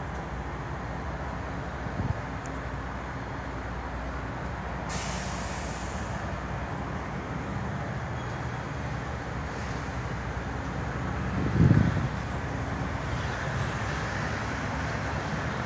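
Diesel semi-truck engines idling steadily, with a short burst of air-brake hiss about five seconds in and a low thump near the twelve-second mark.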